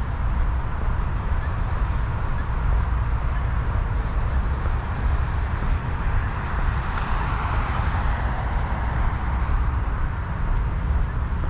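Steady low rumble of wind on the microphone over a wash of traffic noise, swelling as a vehicle passes about seven to nine seconds in.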